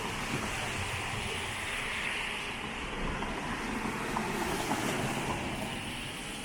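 A vehicle passing on a rain-wet street: a hissing tyre-on-water rush over a low rumble that swells to a peak about four seconds in, then fades.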